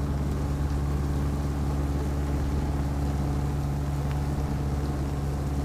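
Narrowboat's inboard diesel engine running steadily at cruising speed, with an even low drone.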